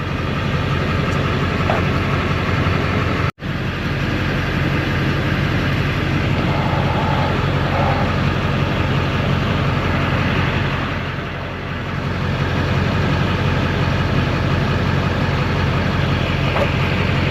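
Duramax LLY 6.6-litre V8 turbo-diesel idling steadily, just started on fresh oil to build oil pressure and warm up.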